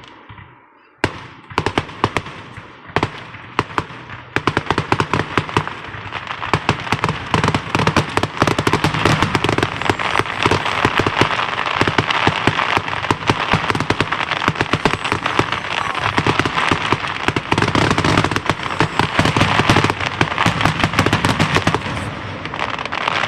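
Fireworks going off: a few separate sharp pops at first, then from about five seconds in a dense, continuous run of rapid pops and crackles that dies away just before the end.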